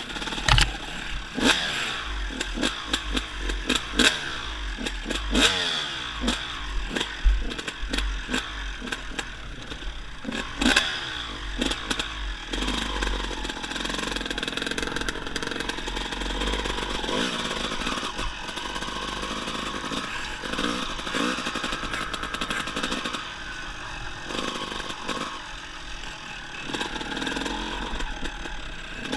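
Dirt bike engine revving up and down as the bike is ridden, with the pitch rising and falling repeatedly and then holding steadier for a stretch in the middle. Occasional sharp knocks and rattles sound over a heavy low rumble.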